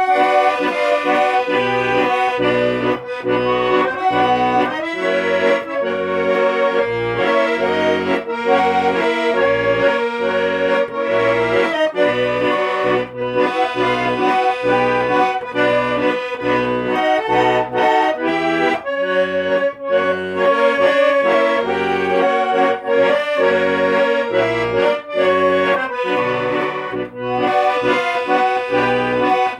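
Accordion playing a tango: a held, sustained melody over a steady, pulsing bass.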